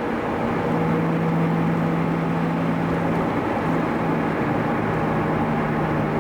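Car engine running at a steady pitch with road and tyre noise, heard from inside the cabin while driving.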